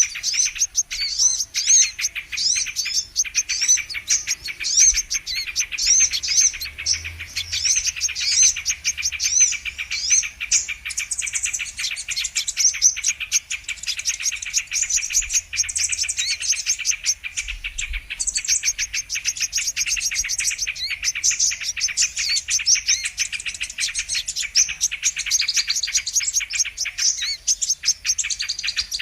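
Brown-throated sunbird (kolibri kelapa) calling without pause: a dense stream of fast, high chirps and twittering trills.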